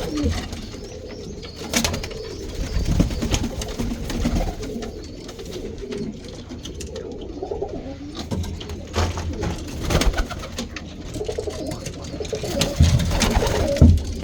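Domestic roller pigeons cooing in a small loft, with scattered knocks and clicks from the birds moving about.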